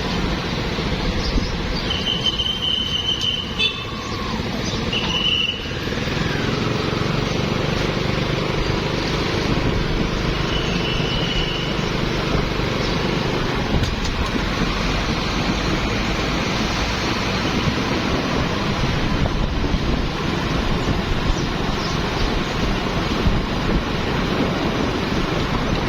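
Busy street traffic of motorbikes, cars and tuk-tuks running past, a steady engine and tyre rumble. Short high horn beeps sound about two seconds in, again around five seconds, and once more around ten seconds in.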